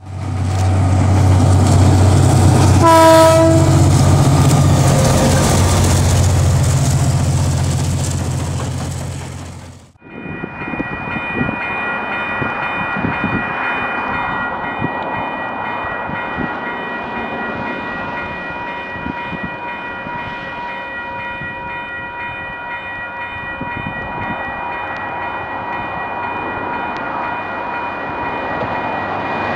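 Train running loud with a deep rumble and a short horn toot about three seconds in. After a sudden break about ten seconds in, a train approaches along the track with a steady whine of several tones over a rumbling hiss.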